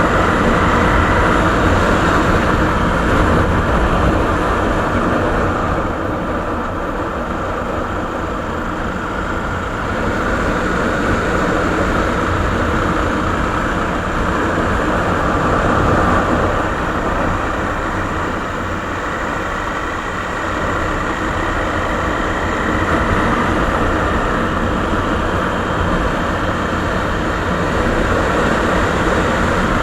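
Suzuki Savage's 650 cc single-cylinder four-stroke engine running through its original exhaust muffler: a steady, loud, rapid low thumping that swells and eases a little now and then.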